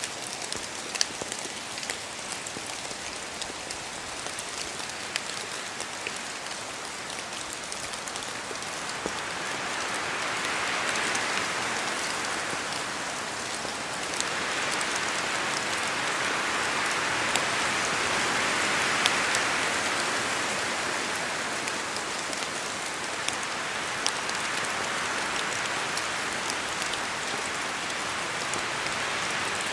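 Steady rain in a forest, with many single drops pattering through an even hiss. The rush swells louder twice in the middle, as gusts of wind move the trees.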